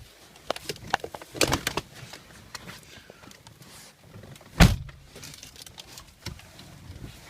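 A person shifting and moving the seat inside a car's cabin: scattered clicks, rustles and knocks, with one loud thump a little past halfway through.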